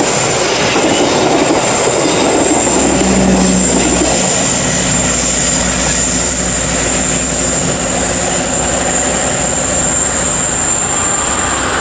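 Argo Parahyangan passenger train's last coaches rolling past and away around a curve: a steady rumble of wheels on rails, with a steady high whine over it.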